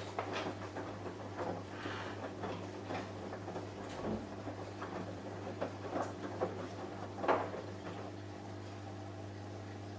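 Samsung Eco Bubble washing machine running with a steady low hum, and irregular soft knocks and clicks over the first eight seconds, the loudest about seven seconds in.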